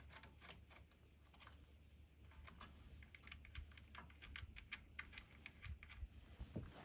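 Near silence with faint, irregular light clicks and taps, a few a second.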